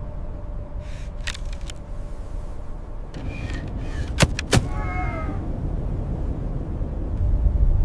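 Wind rumbling steadily. About halfway, two sharp clicks, then a short high animal cry lasting about half a second.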